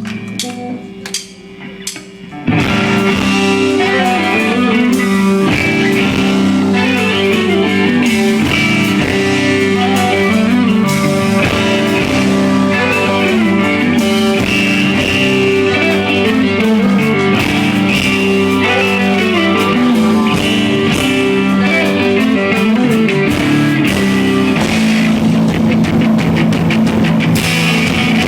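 Rock band playing live: electric guitars over a drum kit. After a sparse, quieter opening, the full band comes in loud about two and a half seconds in and plays on steadily.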